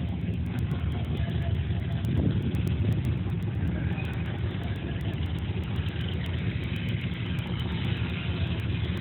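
Car engine idling with a steady low rumble that swells a little about two seconds in.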